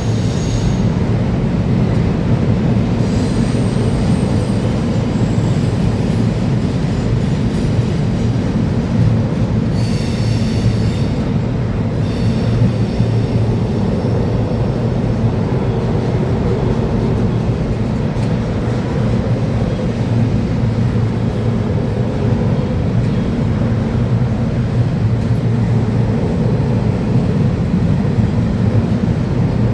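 Freight train cars rolling past with a steady low rumble of wheels on rail. Faint high wheel squeals come in twice, a few seconds in and again about ten seconds in.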